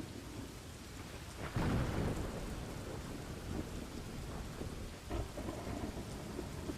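Steady rain with thunder: a louder thunderclap with a low rumble about a second and a half in, and a smaller rumble about five seconds in.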